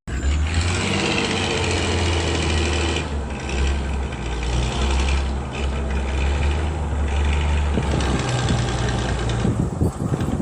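A DIY mini tractor's small motor running steadily with a low hum and mechanical noise. Irregular rattling clicks come in near the end.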